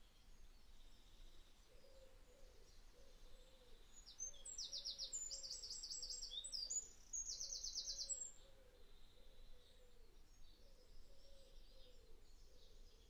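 Faint birdsong: a bird sings fast, high trills in the middle of the stretch, in two runs with a short break between them, and weaker chirps come before and after.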